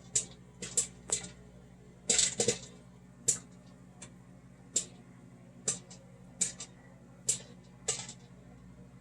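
Blue popcorn kernels popping in a microwave popcorn popper: scattered sharp pops at irregular intervals, one or two a second, over the steady hum of the running microwave oven.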